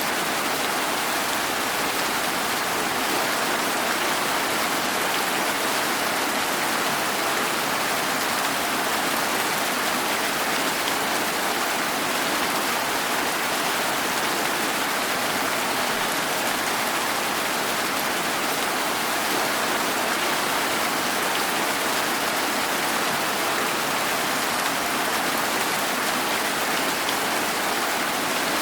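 Steady, even rain falling without let-up.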